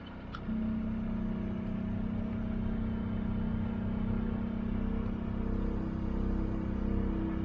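A boat's engine running steadily at an even pitch with a low hum, coming up about half a second in and then holding.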